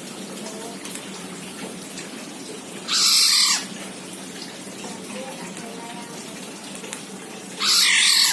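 Black-naped oriole giving two harsh calls about five seconds apart, each lasting under a second, over a steady background hiss.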